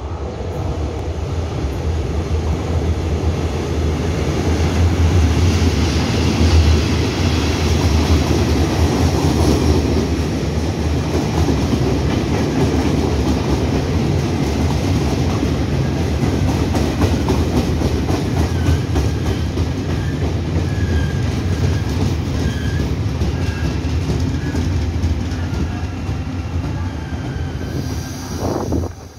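Taiwan Railway Chu-Kuang express train hauled by an E235 electric locomotive running into a station: a steady rumble of wheels on rail, with faint high wheel or brake squeals in the second half. It drops off sharply just before the end.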